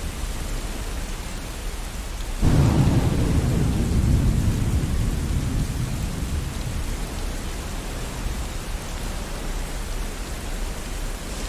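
Steady rain with a thunderclap about two and a half seconds in: a sudden loud crack that becomes a deep rumble, fading away over the next several seconds while the rain carries on.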